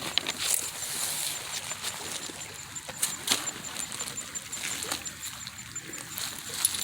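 Shallow creek water trickling, broken by several sharp splashes and clicks as the water is waded or disturbed.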